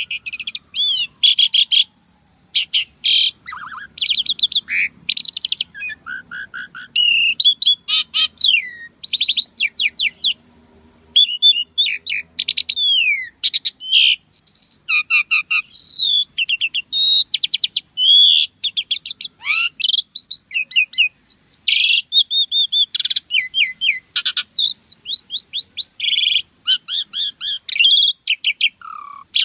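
Asian pied starling (jalak suren) singing without pause: a rapid, varied string of short chattering notes, clear whistles and rising and falling glides.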